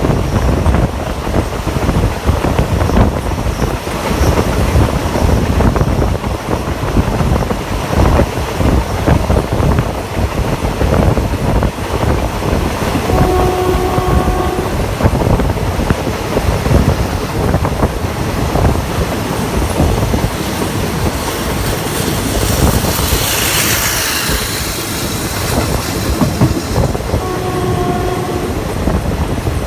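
Passenger train running on the rails with a steady rumble and wheel clatter, heard from aboard a carriage. A locomotive horn sounds twice, a blast of about a second and a half around the middle and a shorter one near the end, and a brief hissing rush comes a little after two-thirds through.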